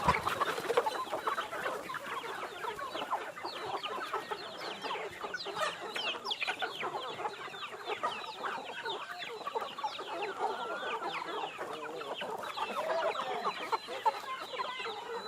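A flock of free-range chickens clucking and chirping together, many short calls overlapping continuously.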